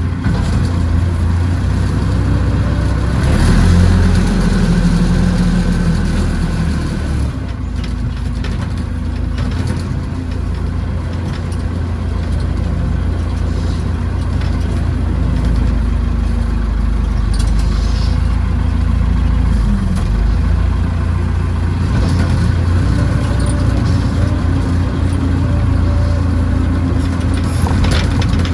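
Backhoe engine running steadily under working load, its note rising for a few seconds about three seconds in, with occasional knocks.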